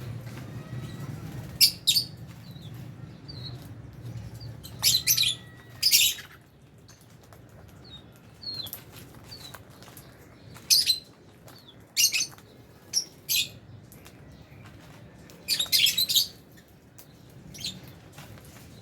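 A flock of lovebirds chirping: short bursts of loud, shrill, high-pitched calls come at irregular intervals, about eight times, with fainter single tweets in between.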